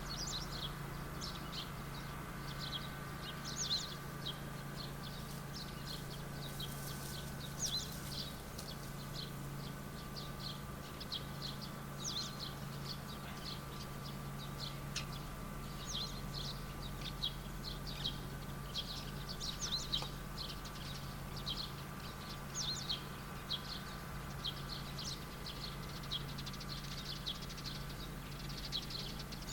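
Small birds chirping, many short high calls repeating throughout, over a steady low hum.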